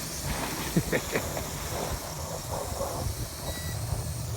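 Steady hiss over a low rumble, with a few brief faint sounds about a second in.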